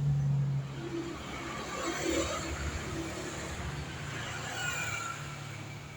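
Motorcycle engine running steadily, a low hum with some scattered mechanical noise over it.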